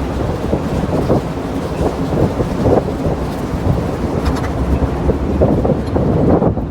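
Wind buffeting the microphone as a loud, rough low rumble with irregular gusts.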